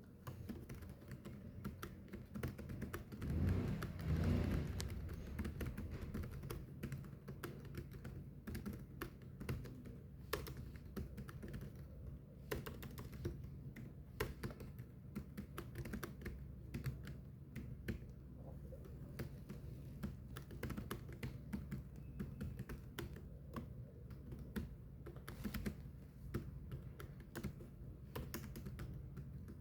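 Continuous fast typing on a keyboard: a quick, uneven run of key clicks over a faint steady low hum. About three to five seconds in, a louder low rumble rises and fades.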